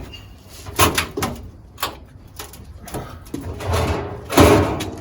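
A school bus side window being set back into its frame: several sharp clunks and knocks, then a scraping slide and a loud clatter near the end as it is pushed into place.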